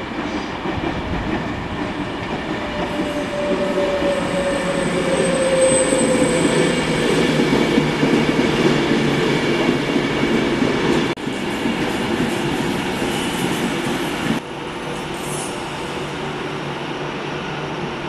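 A Northern Class 156 diesel multiple unit, then an Avanti West Coast Pendolino electric train, moving slowly over curved station pointwork: steady engine and wheel noise, with wheel squeal on the curves. A high squeal and a slowly falling tone come a few seconds in. The sound changes abruptly about eleven and fourteen seconds in.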